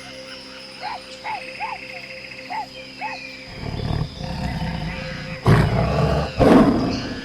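Short repeated chirping calls give way to a big cat roaring. A rough, low growl builds from about halfway, and two loud roars come near the end.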